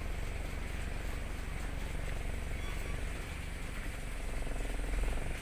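A motor vehicle engine running steadily with a low rumble, swelling slightly near the end.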